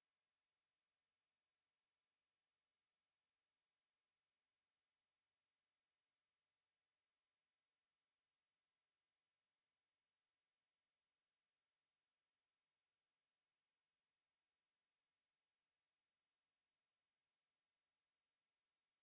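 A steady, high-pitched pure sine tone at 11244 Hz, held unchanging: a speaker test signal.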